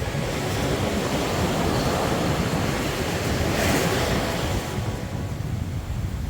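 Surf washing onto a sandy beach, with strong wind rumbling on the microphone; the wash of a wave swells loudest a little past the middle.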